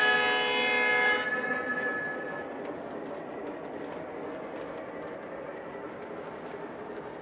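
Lionel C-420 model diesel locomotive's sound system blowing its horn, which cuts off about a second in, followed by a steady running sound from the model locomotive.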